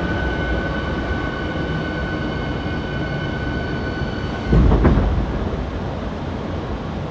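Hankyu 7300-series electric train's traction equipment whining at low speed as it brakes to a stop, several steady tones over wheel rumble that cut off about four seconds in, followed by a low thump, typical of the electric brake fading out and the train settling to a halt.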